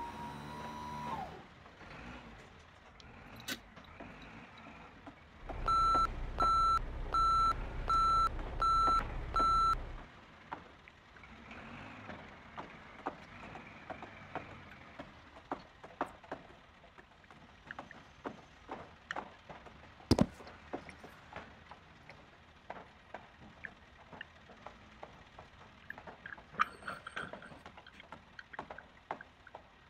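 Toy construction truck's electronic sound effect: an engine rumble with six evenly spaced reversing beeps, lasting about four seconds. Around it, scattered light clicks and knocks of plastic toy vehicles being handled.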